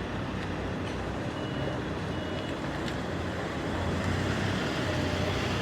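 Nissan pickup's engine running steadily after a cold start on jump leads, following months of standing unused, a little louder from about four seconds in. Two short faint high beeps come about a second and a half and two seconds in.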